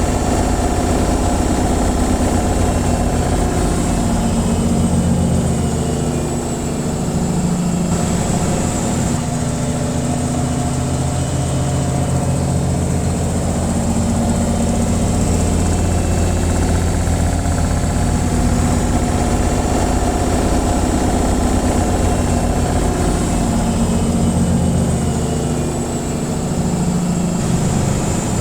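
Washing machine on its spin cycle: a steady low hum with a fast vibrating pulse, easing slightly a couple of times.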